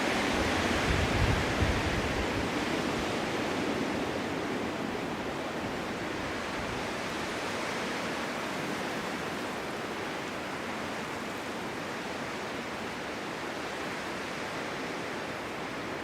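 Winter wind blowing steadily, with a stronger gust about a second in that brings a low buffeting rumble, then easing slightly.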